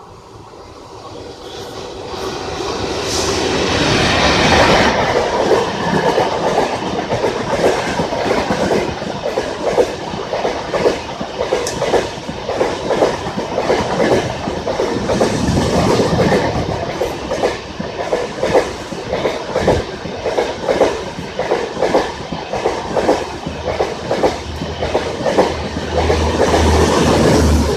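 Train approaching and passing close by: the sound builds over the first few seconds to a loud pass, then the wheels clatter rhythmically over the rail joints as the coaches run past.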